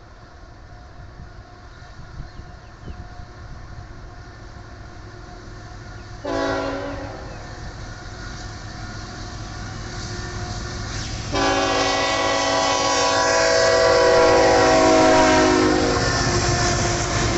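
Approaching diesel freight locomotives: a low engine rumble that grows louder, a short blast of the air horn about six seconds in, then a long, loud horn blast from about eleven seconds on, the horn sounding as a chord of several notes.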